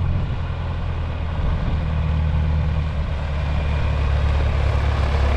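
Old John Deere tractor engine running steadily, a low hum that grows a little louder near the end.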